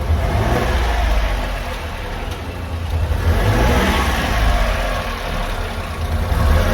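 1994 Honda Acty kei truck's small three-cylinder engine running, its revs rising and falling a few times.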